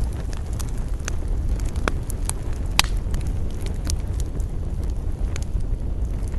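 Wood campfire crackling, with scattered sharp pops, one louder pop nearly three seconds in, over a steady low rumble of wind.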